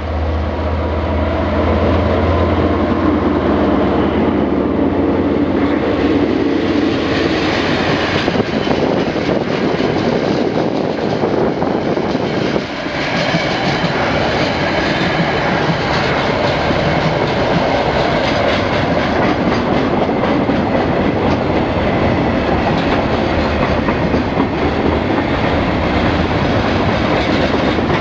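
Diesel freight train passing close by: the locomotives' engines give a low steady hum for the first few seconds, then the wagons roll past with a continuous clickety-clack of wheels on the rails.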